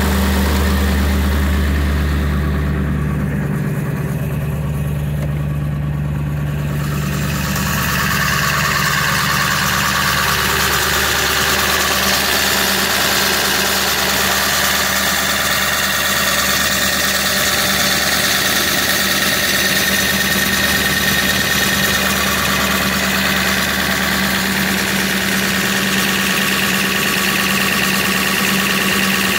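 Ford 7.3 Power Stroke V8 turbo-diesel idling steadily, still cold after a start at −8 °C. Its note shifts slightly a few seconds in, then settles.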